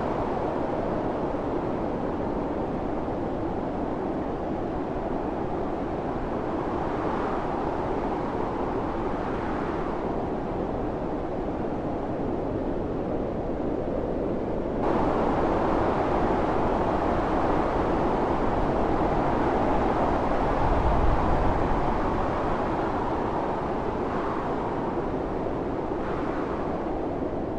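Blizzard wind rushing steadily with slow gusting swells. It turns abruptly louder and brighter about halfway through.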